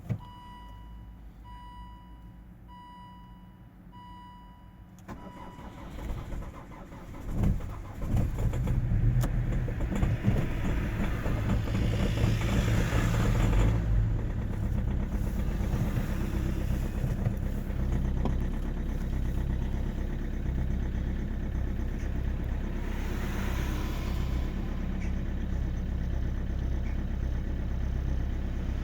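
Cold start of a Volvo V50's 2.0-litre four-cylinder common-rail turbodiesel. A dashboard chime beeps steadily for about five seconds, then the starter cranks and the engine catches about eight seconds in. It settles into a steady diesel idle.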